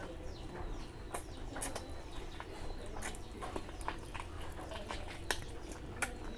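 A person chewing and smacking while eating, heard close up: many short, irregular clicks.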